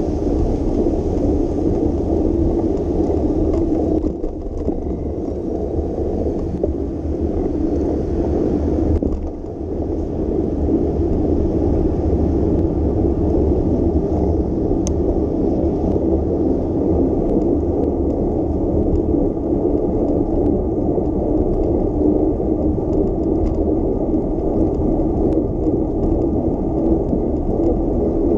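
Steady low rumble of a bicycle ride: wind buffeting the microphone and tyres rolling on a wet road, dipping briefly about four and nine seconds in.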